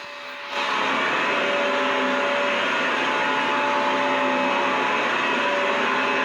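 Vacuum cleaner running steadily: a rushing hiss with a motor whine held on a few steady pitches. It steps up louder about half a second in, then holds level.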